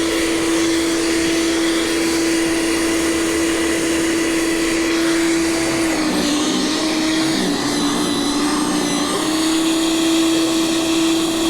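Gasoline snow blower engine running steadily, its pitch dropping and wavering for about three seconds in the middle before it settles back.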